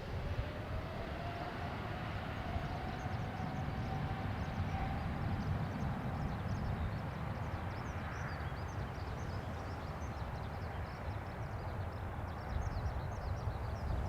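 Jet airliner's engines rumbling during its takeoff run, with a faint whine that rises slightly in pitch over the first few seconds and then holds steady.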